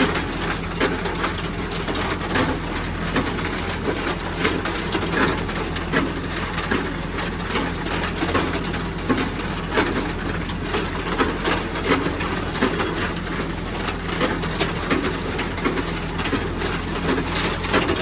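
Tractor engine running steadily, with irregular rattling and knocking over it.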